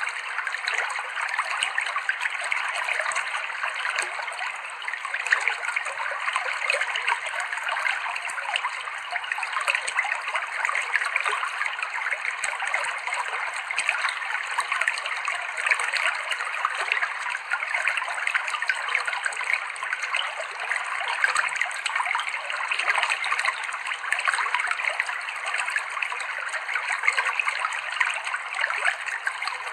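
Clear stream water running over rocks: a steady rush of small splashes and trickles with no deep rumble.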